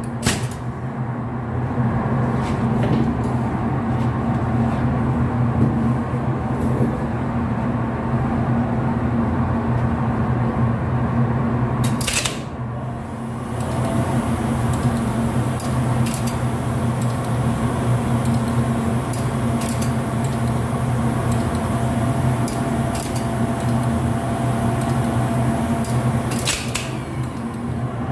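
A steady low electrical hum runs throughout, with scattered sharp clicks and taps over it and a brief lull about twelve seconds in.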